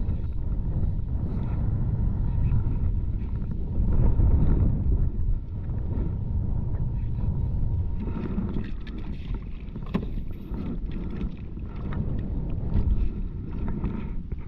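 Wind buffeting the microphone in a steady, gusting low rumble, with a few faint knocks and clicks.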